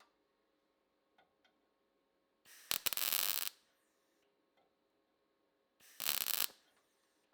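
Two short bursts of welding crackle, about a second and half a second long, with small clicks and a faint steady hum in between: tack welds being laid on replacement wheel-arch panel steel.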